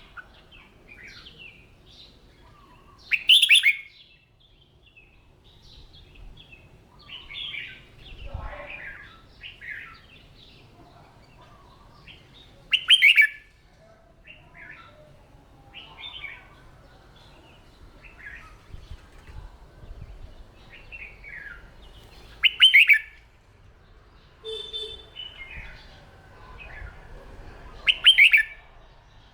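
Red-whiskered bulbul singing: four loud, short song phrases spaced several seconds apart, with softer chirps and whistled notes in between.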